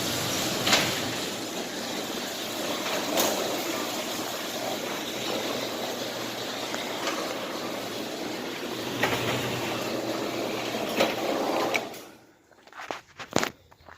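Pressure washer spraying: a steady hiss of spray over the pump's hum, cutting off about twelve seconds in, followed by a few sharp clicks.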